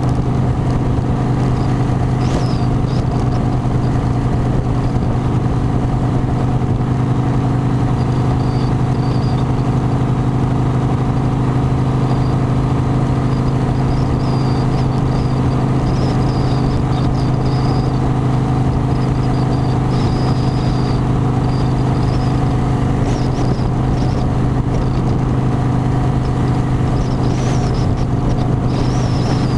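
Harley-Davidson motorcycle's V-twin engine running at a steady speed, a constant drone with no changes in pitch.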